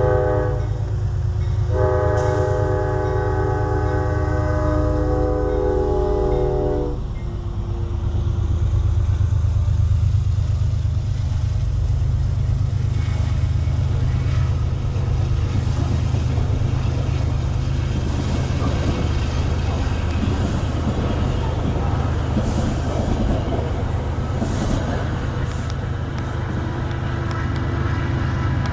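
P32AC-DM diesel locomotive sounding its multi-note horn: a short blast ending just after the start, then a long blast of about five seconds, over the steady rumble of the diesel engine. The train then rolls past with steady wheel and rail noise.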